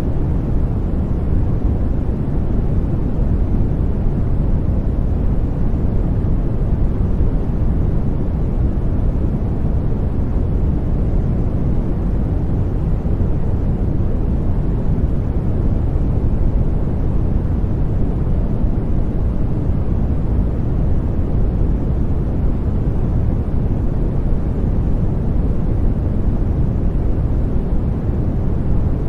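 Continuous sleep white noise, deep and bass-heavy rather than hissy, holding perfectly steady with no changes.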